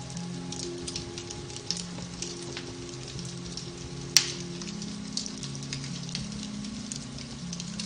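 Beech-wood fire crackling in a fireplace, with many small snaps and one sharp, loud pop about four seconds in, over soft music of long held notes.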